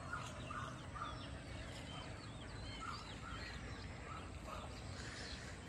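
Faint bird calls: a series of short calls, about two a second, pausing for a couple of seconds in the middle, with small birds chirping thinly over them.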